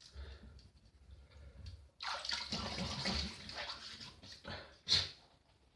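Water running and splashing from a tap for about two seconds, then one sharp knock near the end.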